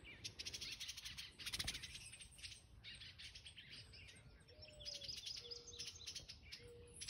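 Adult birds calling in rapid, clicky chattering runs, scolding in alarm at a person close to their fledgling.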